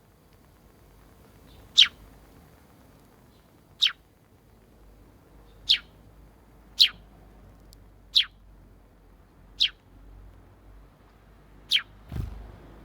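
A sparrow giving single sharp chirps, seven in all, one every one to two seconds, each a quick falling note. A soft thump comes just before the end.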